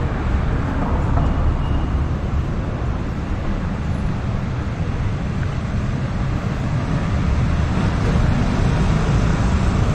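Steady street traffic noise: a continuous rumble of passing vehicles.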